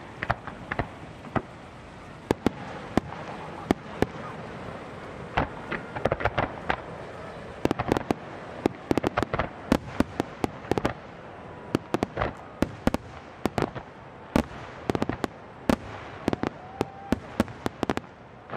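Aerial fireworks going off in a display: many sharp bangs and reports at irregular intervals, coming in dense rapid volleys partway through and again near the end.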